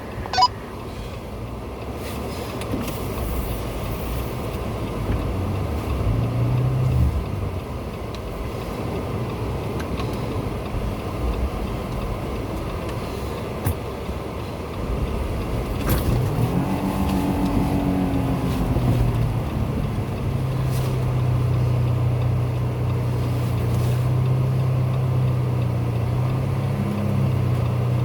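Vehicle engine revving as a stuck truck tries to drive out of the snow on its own: the revs climb and drop about six seconds in and again around seventeen seconds, then hold steady and high from about twenty seconds on.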